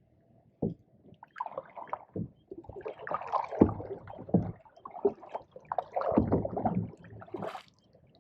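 Canoe paddling: irregular splashing and gurgling of the paddle in the water, with a few sharp knocks.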